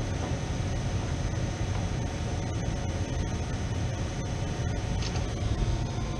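Steady low mechanical rumble with hiss over it and a faint high whine, from a running machine.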